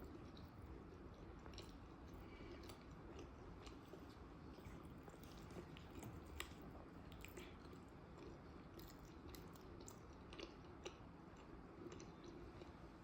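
Quiet, close-miked chewing of food, with scattered soft mouth clicks and smacks; the sharpest come about six seconds in and near eleven seconds.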